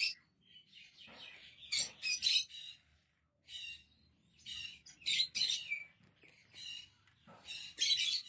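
A pet parrot chirping: a string of short, high calls, one or two at a time, with brief pauses between them.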